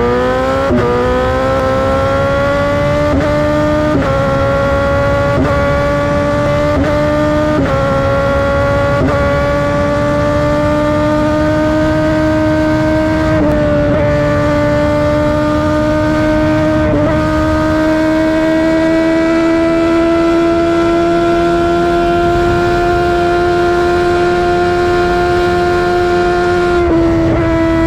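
A motorcycle engine running at high revs, its pitch creeping upward with brief dips every second or two, then holding high and steady for the second half.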